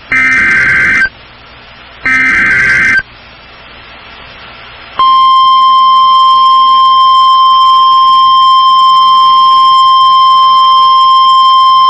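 NOAA Weather Radio emergency alert signal. Two one-second bursts of warbling SAME data tones come about two seconds apart. About five seconds in, the steady 1050 Hz warning alarm tone starts and holds, announcing a severe thunderstorm warning.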